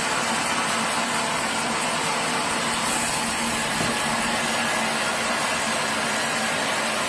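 Sawmill machinery running steadily: an even noise with a steady low hum that does not change.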